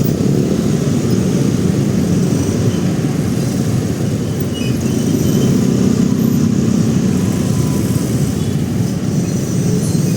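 Motorcycle riding in city traffic, heard from the rider's camera: a steady, loud rumble of engine and road noise.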